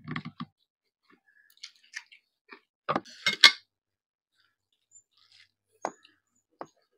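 Someone eating rice mixed with gravy: scattered wet chewing smacks and clicks with short gaps between, the loudest cluster about three seconds in.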